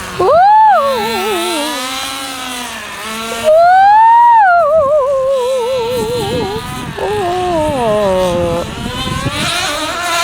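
Small nitro RC truck engine revving high and letting off, its pitch rising and falling with the throttle. There are two hard bursts, one right at the start and a longer one about three and a half seconds in, with a wavering buzz between them.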